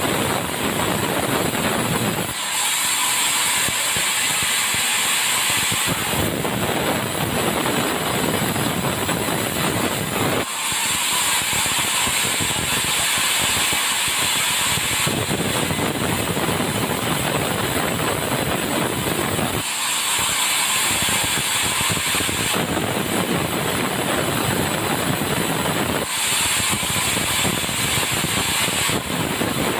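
Sawmill machinery running continuously, with a sawing noise that switches abruptly every three to five seconds between a fuller, low-pitched run and a thinner, hissing sound.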